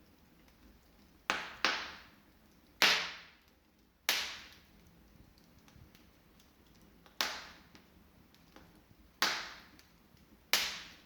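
Wood fire burning in an open fireplace: seven loud, sharp pops, each dying away over about half a second, over faint crackling.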